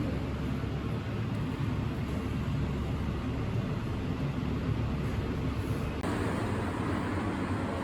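Steady low rumble of background noise, with a slight change in its texture about six seconds in.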